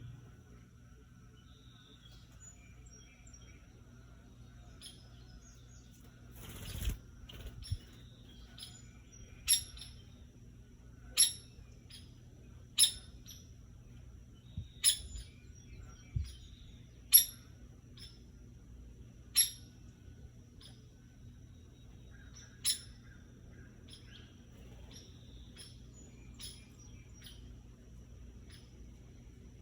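A woodpecker making sharp, very short single clicks, about eight of them spaced irregularly a second or two apart. A brief rustle comes just before the first ones.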